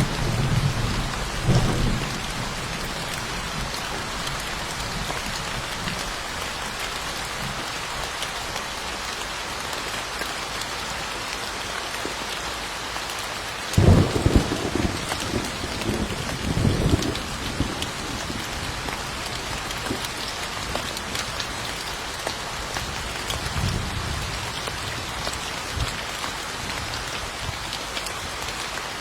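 Steady rain falling, with thunder rumbling: a rumble in the first couple of seconds, a sudden loud crack about halfway through that rolls on for a few seconds, and a fainter rumble later.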